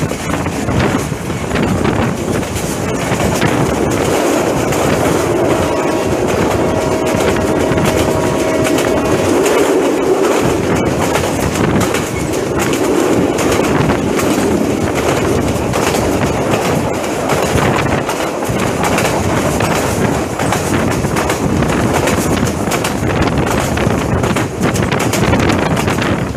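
Passenger train running at speed, heard from on board at an open doorway: a continuous loud rush and rattle of coach wheels on the track. A faint steady whine rises above it for about four seconds, starting some five seconds in.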